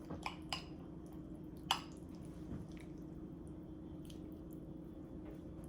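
Faint wet squishing and a few light clicks of a spoon scooping a creamy sandwich mixture and spreading it onto bread, with one sharper click a little under two seconds in, over a low steady hum.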